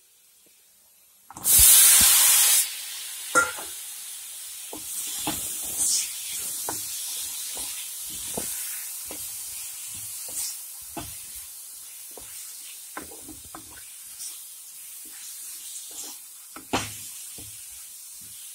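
Chopped tomatoes going into hot oil with the onion masala set off a loud sizzle of about a second. Then the pan goes on frying with a steady sizzle, while a wooden spatula stirs and scrapes through the mixture with scattered knocks.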